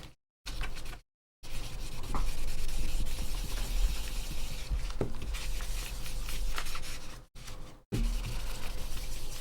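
Irregular rubbing and scratching noises over a steady electrical hum, the sound cutting out briefly twice.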